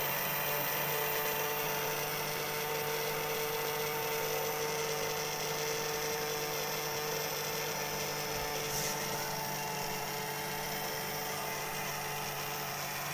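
Steady electrical hum with an even hiss, holding the same pitch throughout.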